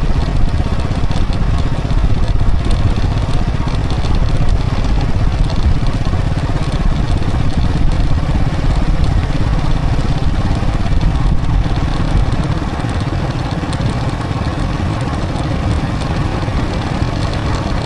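Motorcycle running steadily while riding along a road, a continuous rumble with a haze of road and wind noise; it eases off a little about twelve seconds in.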